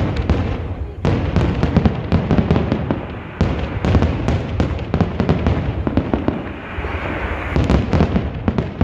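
Fireworks going off: a dense, continuous string of crackling bangs, many to the second, with a sharper bang about three and a half seconds in.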